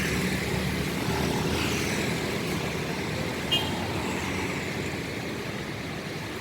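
Steady passing road traffic: engine hum and tyre noise from cars and motorbikes, easing slightly toward the end. A short sharp clink sounds about three and a half seconds in.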